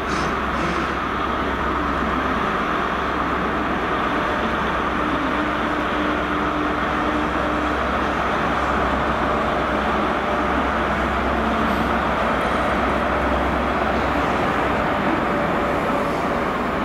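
GWR High Speed Train with a Class 43 diesel power car moving through the station: a steady low diesel drone with wheel and rail noise, holding level throughout.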